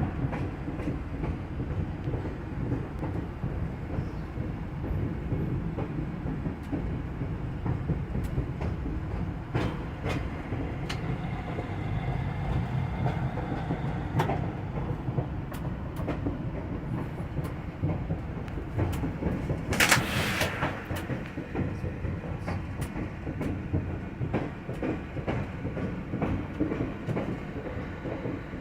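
Inside a moving diesel locomotive's cab: a steady low rumble of engine and wheels, with scattered clicks of the wheels over rail joints. A brief hiss cuts in about two-thirds of the way through.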